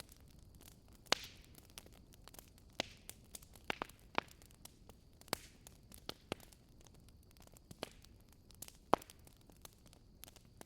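Fire in a fireplace crackling: irregular sharp pops over a soft steady hiss, the loudest pops about a second in and near nine seconds in.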